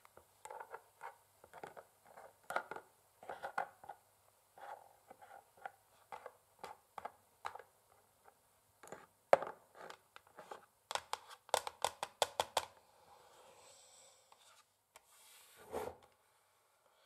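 Long fingernails tapping on a wooden chessboard in irregular sharp clicks, with a quick run of taps about eleven seconds in and a short scratching sound near the end.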